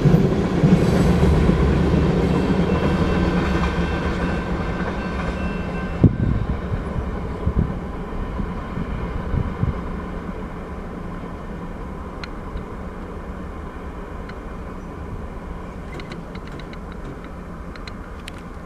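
Freight train cars rolling along the main track, steel wheels rumbling and clattering on the rails, the sound fading steadily as the train draws away. A few sharp clanks stand out about six, seven and a half and nine and a half seconds in.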